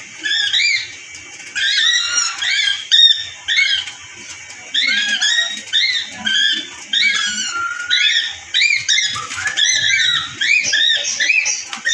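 Several parrots chattering: many short, quick chirps overlapping one another.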